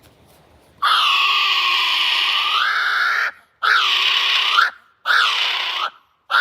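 Kiwi calling: a run of loud, shrill calls that rise and fall in pitch, the first long, about two and a half seconds, then shorter ones repeated with brief gaps.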